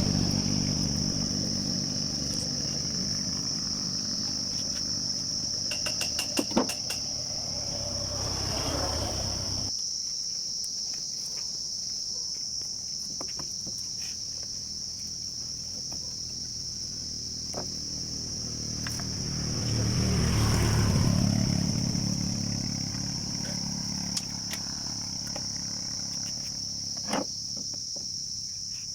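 Crickets trilling steadily and high-pitched. A low engine rumble swells and fades twice, once at the start and again about two-thirds of the way in, and there are a few sharp clicks.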